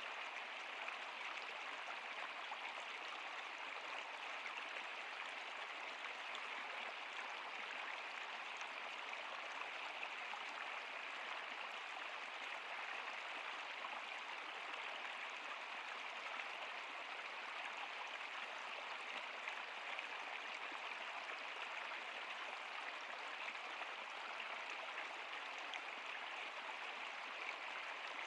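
A stream running steadily: an even, unbroken rush of flowing water, bright with little bass.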